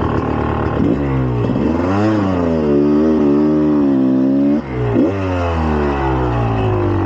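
2004 GasGas EC300's single-cylinder two-stroke engine revving under riding: the revs climb about a second in and hold high for a couple of seconds, cut briefly a little past the middle, then climb again and fall away.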